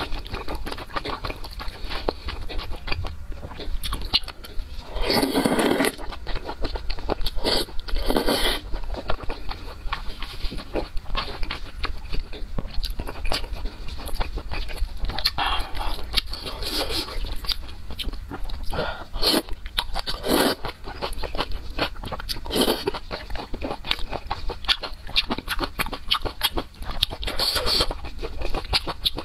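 Close-miked chewing of chewy noodles in spicy sauce: a dense run of wet mouth clicks and smacks, with longer, louder bursts about five and eight seconds in.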